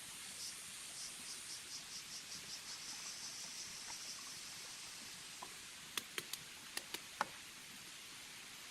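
An insect calling: high-pitched chirps that come faster and faster until they run together into a buzzing trill, then fade out. Near the end, about six sharp clicks or knocks.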